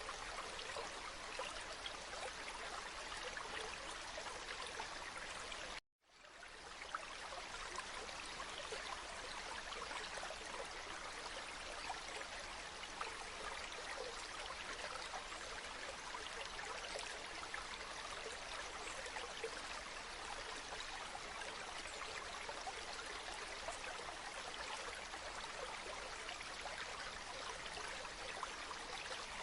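Steady running water of a stream, an even trickling hiss. About six seconds in it cuts out suddenly for a split second and fades back up, the join of a looped recording.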